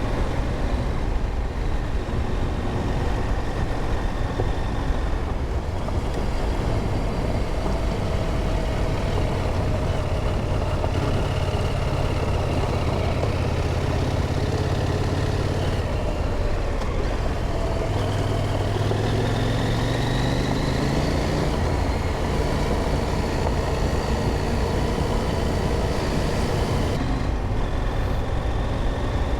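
Motorcycle engine running steadily while riding, under wind and tyre noise; about two-thirds of the way through the engine note rises for a few seconds as it speeds up, then settles.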